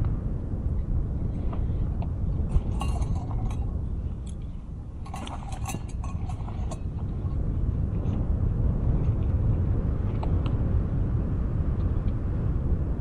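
Wind buffeting the microphone with a steady low rumble. Small clinking sounds come in two brief clusters, one about three seconds in and a longer one about five to seven seconds in.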